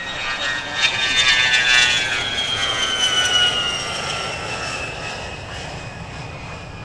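Jet aircraft passing by: a high engine whine that slides down in pitch as it goes past, loudest a second or two in, then fading away.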